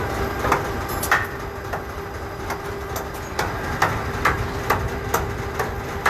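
Forklift engine idling in a steady low rumble, with sharp knocks repeating about twice a second over it.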